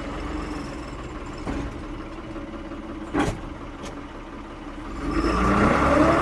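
Diesel engine of a 1975 Ford 550 backhoe idling, with a single sharp clank about three seconds in, then revving up with a rising pitch near the end.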